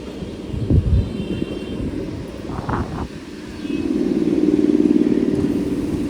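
Kolkata EMU local train running through the station: a low rumble with heavy wheel knocks about a second in, then a steady buzzing hum that swells loud and eases off in the second half.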